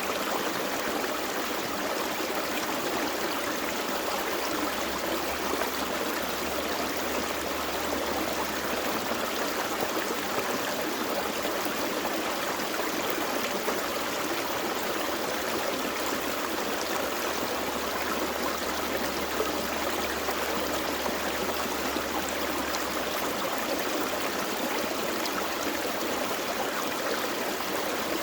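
Gentle forest stream running steadily: an even, unbroken rush and trickle of flowing water.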